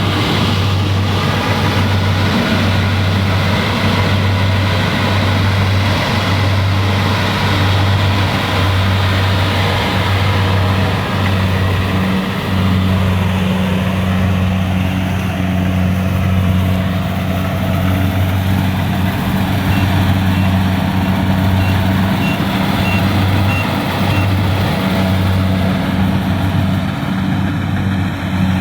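Kubota rice combine harvester's diesel engine running steadily. About two-thirds of the way in comes a run of about eight short, evenly spaced high beeps.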